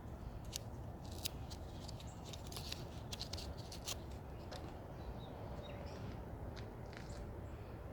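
Scattered short, sharp clicks and light taps, thickest in the first few seconds and sparser later, over a low steady rumble.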